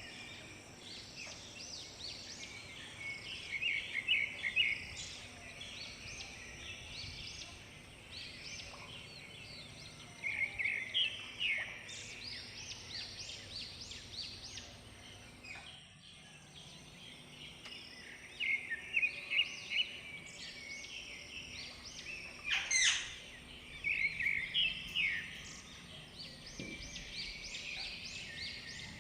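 Several small birds chirping and trilling in quick, overlapping calls, swelling into louder bursts every few seconds, with one sharp call that sweeps across a wide range of pitch about two-thirds of the way through.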